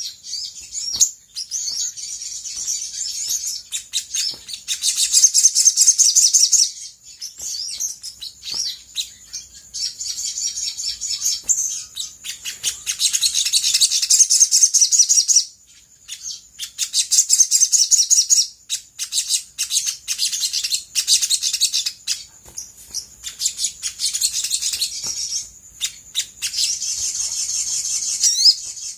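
Olive-backed sunbird song: high-pitched, rapid trilling and chattering in bouts of a few seconds, with brief pauses between them.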